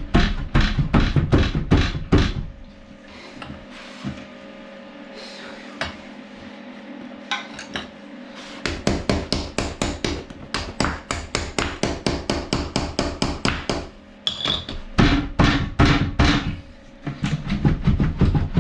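Repeated hammer blows in quick runs of about four strikes a second, with a pause of several seconds between the first run and the next, as a toilet pan stuck to a tiled floor is worked loose.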